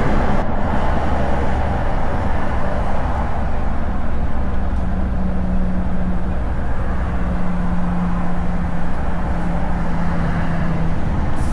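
Scania V8 truck running steadily on the road: a continuous engine drone with road noise, and a steady low hum that comes in about four seconds in.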